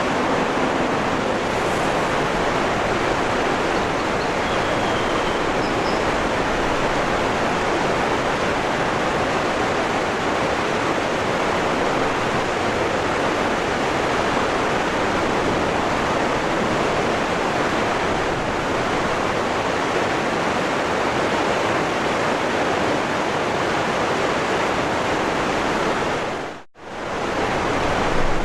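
Waterfall rushing: a dense, steady roar of falling water. Near the end it cuts out for a moment and swells back in, a loop seam in the recording. A couple of faint high chirps come a few seconds in.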